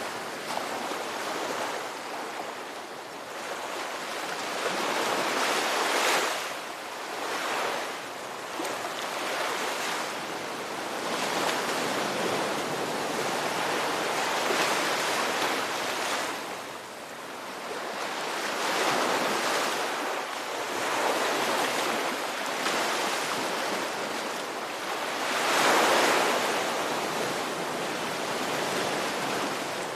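Ocean surf: waves breaking and washing in one after another, the rush of water swelling every few seconds, loudest about six seconds in and again near the end.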